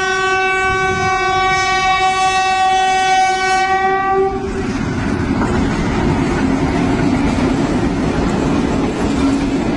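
Train horn blowing one long steady note that cuts off about four seconds in, followed by the train running along the rails with a steady rumble.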